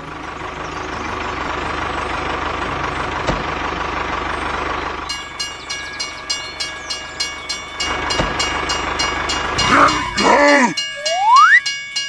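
Train sound: a steady rumble, then from about five seconds in a regular clickety-clack of wheels over rail joints, about two to three clicks a second. A horn-like call and a short rising whistle come near the end.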